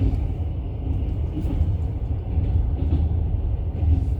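Steady low rumble of a moving vehicle heard from inside the cabin.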